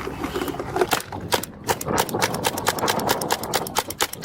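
Pepper ball launcher firing repeatedly: a quick string of sharp pops, about three to four a second, starting about a second in.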